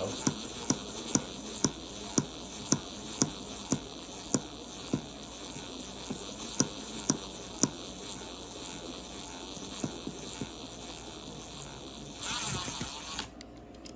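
Handheld electric drill running steadily as a small bit bores into a steel axle, with a sharp click about twice a second through the first half. The drill changes pitch, then stops near the end.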